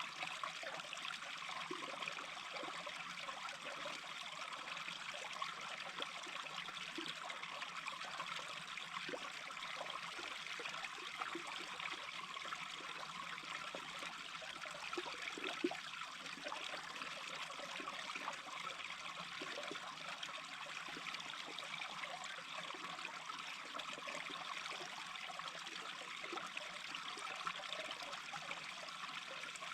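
A small brook babbling and trickling steadily over its bed, with one brief louder gurgle about halfway through.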